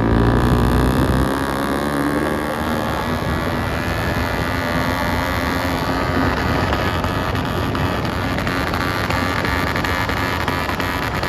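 Motorcycle with an aftermarket exhaust system running, heaviest and deepest in the first second, then holding a steady drone.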